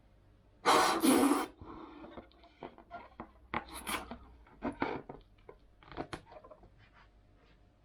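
Latex modelling balloons being handled and twisted, giving short irregular rubbing and scraping sounds, with a loud rush of air about a second in.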